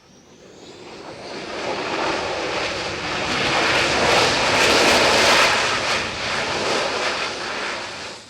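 Panavia Tornado IDS's twin RB199 turbofans passing overhead: loud jet noise that builds over about two seconds, peaks in the middle, and drops away sharply near the end, with a thin whine rising in pitch at the start.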